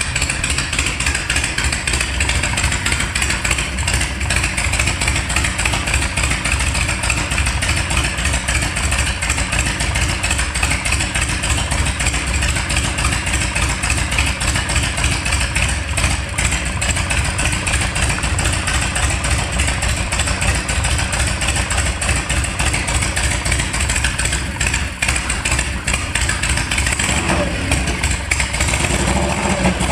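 Harley-Davidson Shovelhead V-twin motorcycle engine running steadily at a fast idle with a rapid, even beat, firing on a newly installed and timed Daytona Twin Tec VT-I electronic ignition in place of the old points.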